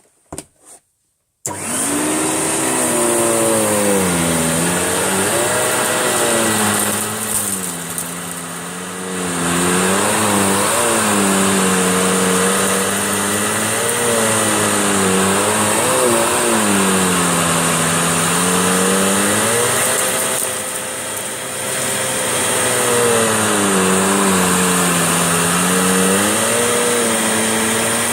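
Vacuum cleaner switched on about a second and a half in, then running loud and steady. Its motor pitch falls and rises again and again as the head is pushed back and forth over a mat.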